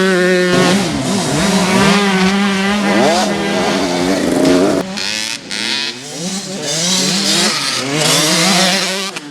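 Several motocross bikes racing, their engines revving up and down and overlapping as they go by.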